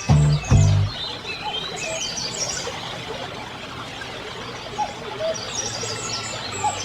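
Several birds chirping and calling in short notes over steady background noise. A piece of music ends about a second in.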